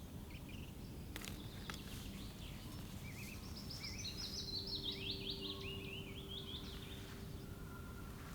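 A small songbird singing one fast run of short, high chirps that falls in pitch over about four seconds, starting about three seconds in, over faint forest background noise.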